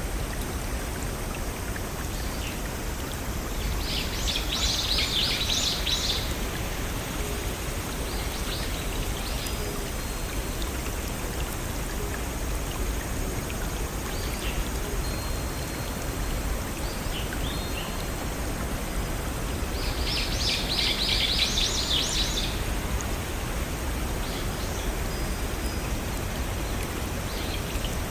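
Steady rush of a brook and small waterfalls, with a songbird singing a short, busy phrase twice, about four seconds in and again about twenty seconds in, and a few faint chirps and thin whistles in between.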